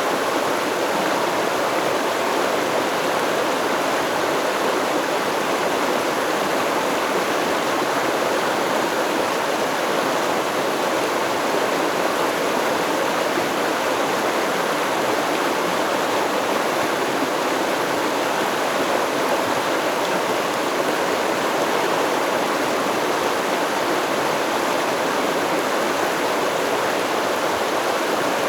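Steady rush of a flowing stream, water running over rocks without a break.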